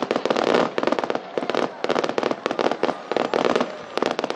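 Fireworks display: a dense, rapid barrage of bangs and crackling bursts, several a second without a break.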